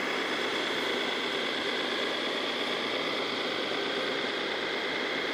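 Radio-controlled scale model trucks running: a steady mechanical hum and noise with a constant high whine.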